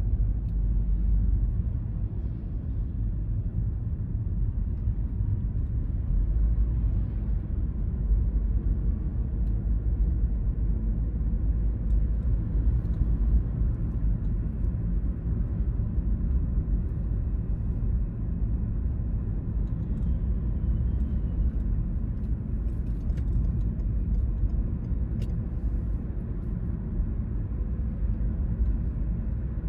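A car driving, with a steady low rumble of road and engine noise that holds level throughout.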